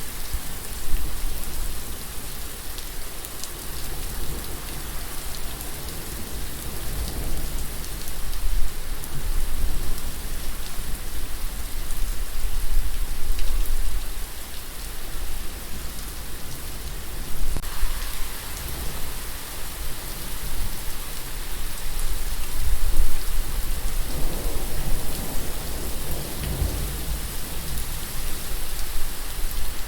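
Steady rain falling, a dense continuous hiss with a low rumble underneath that swells for a few seconds near the end.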